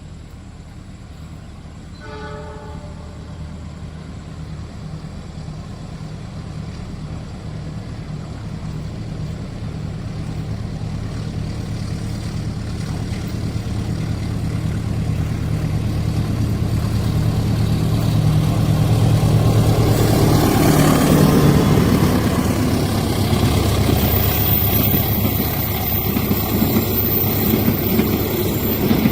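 Diesel locomotive of an Indonesian passenger train approaching a level crossing, its engine drone growing steadily louder, with a short horn note about two seconds in. It is loudest about twenty seconds in as the locomotive passes, and then the carriages rattle and clatter by.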